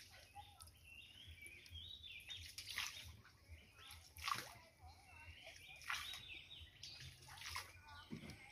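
Faint birds chirping and warbling, with a few short, sharp splashy sounds at irregular intervals.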